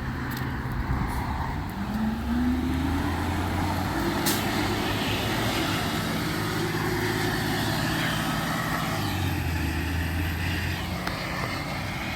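Recycling truck's engine running, revving up about two seconds in and holding the higher pitch for several seconds before easing off.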